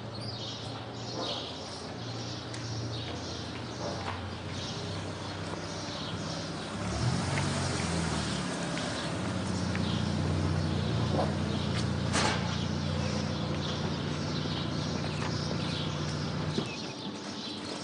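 Street ambience: small birds chirping over and over, above the low steady hum of an engine. The hum grows louder about seven seconds in and cuts off shortly before the end.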